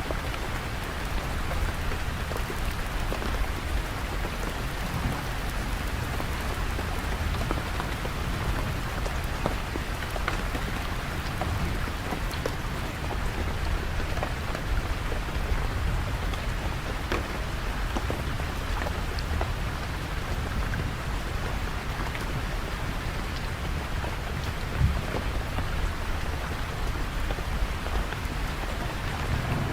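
Steady rain falling, with many sharp drop hits close by and a low rumble underneath. One louder knock stands out about 25 seconds in.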